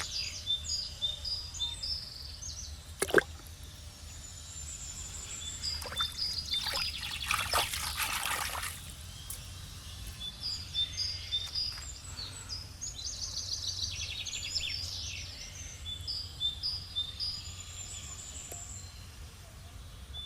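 Birds singing, with short chirping phrases repeated over and over, and water splashing for a few seconds midway. A single sharp knock sounds about three seconds in.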